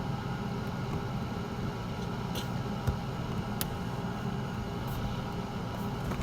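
Steady low mechanical hum of background machinery, with a few faint clicks and knocks scattered through it.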